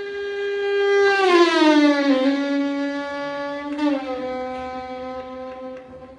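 Air horn blowing one long continuous note with a rich stack of overtones. Its pitch drops noticeably about a second in and again about four seconds in, and it is loudest between about one and two seconds in.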